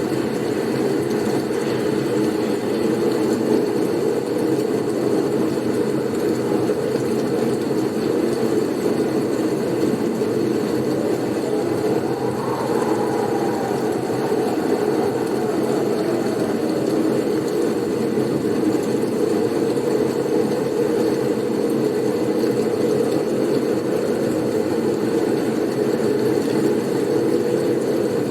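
Steady low roar of blizzard wind, with a faint whistle that rises and falls about twelve seconds in.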